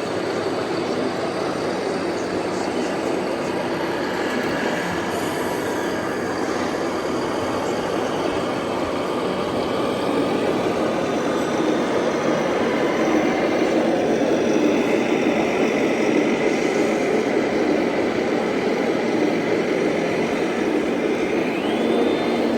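Radio-controlled model trucks running: a steady whirr of small electric motors and gearboxes, with a motor whine rising in pitch near the end.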